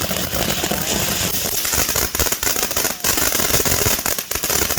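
Consumer firework fountain hissing as it burns, with dense, irregular crackling from its crackle effects.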